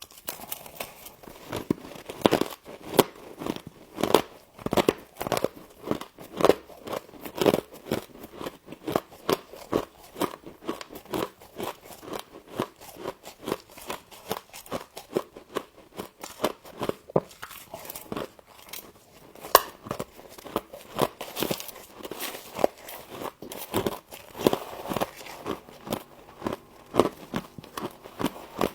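A person biting and chewing frost close to the microphone: a steady run of sharp, irregular icy crunches, a couple each second.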